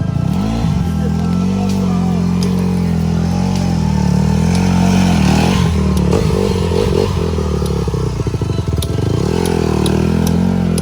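Dirt bike engine running, its pitch rising and falling as the throttle opens and closes, with scattered light clicks and clatter.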